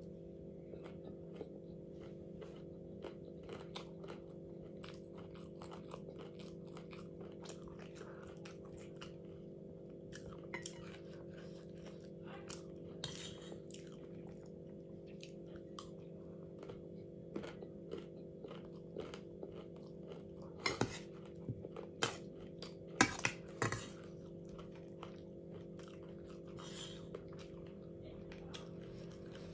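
A person chewing and crunching food close to the microphone, with small clicks of a utensil against a dish and a few louder knocks about 21 and 23 seconds in. A steady low hum runs underneath.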